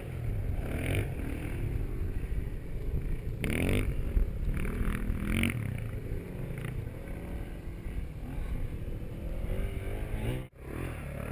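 Off-road motorcycle engine running, revving up a few times with rising pitch, around three and a half seconds in and again near the end.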